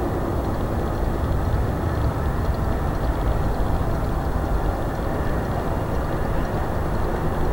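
Steady low rumble of an Airbus A320neo airliner's jet engines, with no distinct changes or events.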